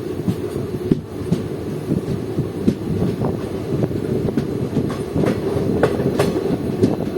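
Passenger train running along the track: a steady rumble with irregular clicks and knocks of the wheels over the rails.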